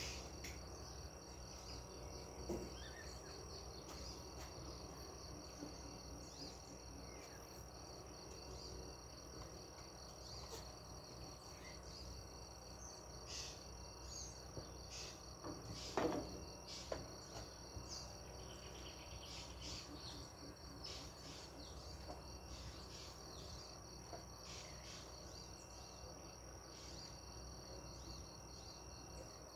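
Faint, steady high-pitched chorus of insects trilling, with scattered short bird chirps. One brief, sharper sound stands out about halfway through.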